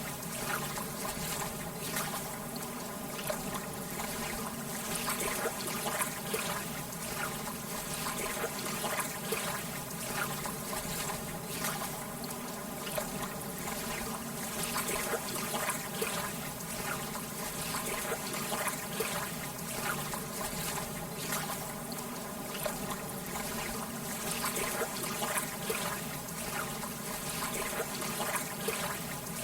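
Gentle lake water lapping, a steady wash with many small splashes and trickles.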